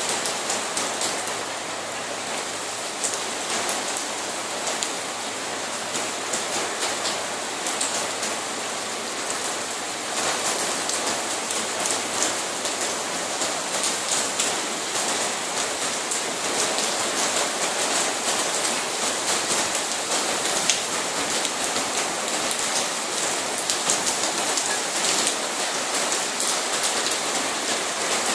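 Rain falling steadily: a continuous hiss of rain with many separate drop impacts ticking through it. It gets a little louder about a third of the way in.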